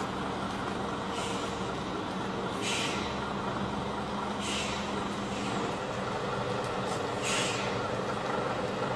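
Heavy truck's diesel engine running steadily, with four short hisses of air, like air-brake releases, spread through it.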